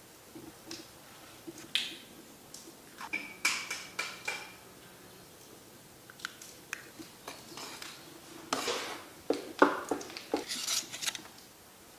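Cooking utensils, pans and dishes clinking and scraping in irregular knocks, with a brief metallic ring a few seconds in. The clatter gets busier and louder in the second half.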